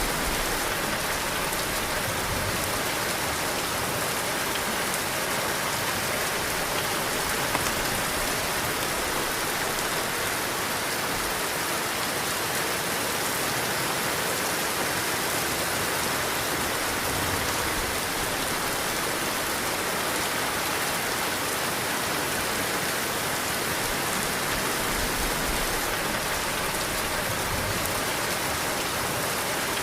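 Heavy rain falling steadily, a dense even hiss, with soft low gusts of wind now and then.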